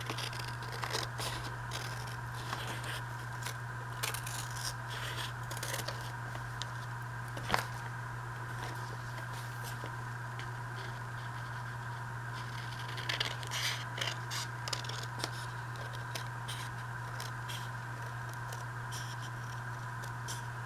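Scissors snipping through paper in runs of short cuts with pauses between them. A steady low hum sits underneath.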